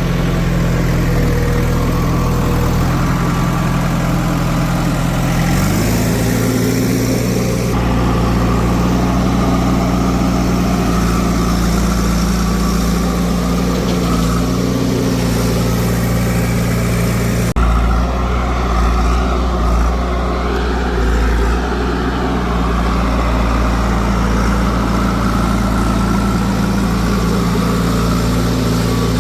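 Heavy diesel machine engines running steadily at a loading site, their pitch stepping up about five seconds in as an engine is revved. About halfway through the engine sound changes abruptly, then runs steadily again.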